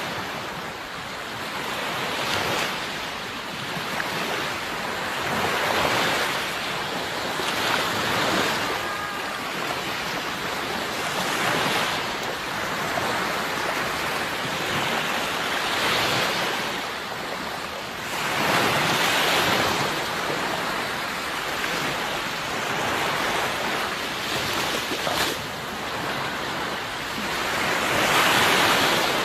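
Sea waves breaking and washing on the shore in repeated swells every few seconds, the loudest near the end, with a steady wind noise underneath.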